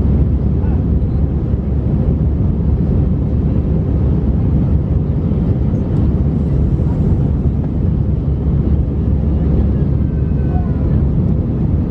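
Steady low cabin noise of an Airbus A319 in flight, heard from inside the passenger cabin: jet engines and rushing air at an even level.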